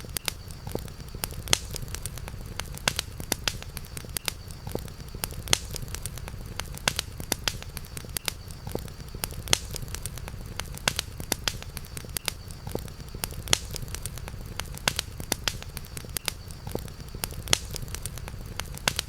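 Campfire burning, with frequent irregular sharp pops and snaps of the wood over a low steady rumble.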